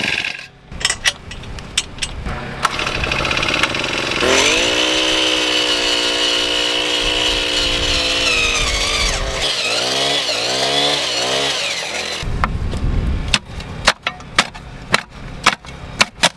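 Gas-powered earth auger's engine revving up about four seconds in after some light clicks, running at high revs, then wavering and dropping in pitch as the bit bores into rocky ground. A run of sharp knocks follows near the end.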